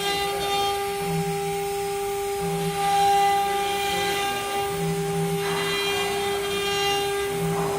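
Stone CNC router running: the spindle gives a steady high whine, under a lower hum that comes and goes every second or two.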